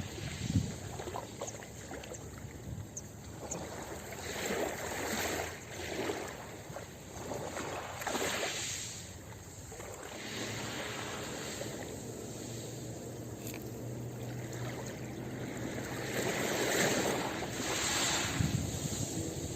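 Ocean waves breaking and washing up a beach, the surf rising and falling in repeated surges every few seconds.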